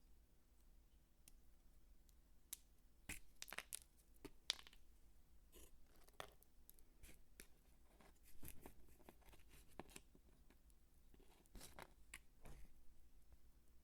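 Soap crunching and crackling as it is handled: crisp, faint crunches at uneven intervals, several coming in quick clusters.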